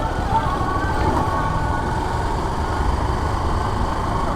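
Motorcycle engine running with a steady low sound under street noise, heard from the rider's camera.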